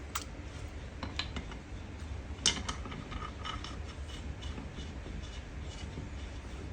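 Small metal clicks and clinks of tools and parts being handled: a few light clicks, one sharper click in the middle, then a run of lighter ticks. A steady low hum runs underneath.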